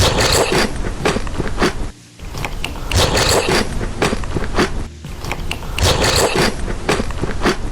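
Close-up crunchy chewing and biting of crisp food, loud and crackly, in three bouts broken by short pauses about two and five seconds in.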